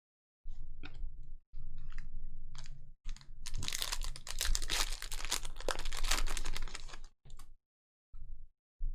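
Trading cards and pack wrappers being handled: light clicks and taps, then dense crinkling and rustling from about three to seven seconds in. The sound cuts in and out abruptly between handling noises.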